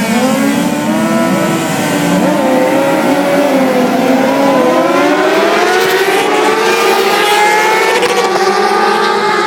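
Several superbike racing motorcycle engines at a race start, held at high revs and wavering, then climbing steadily in pitch from about four seconds in as the bikes accelerate away.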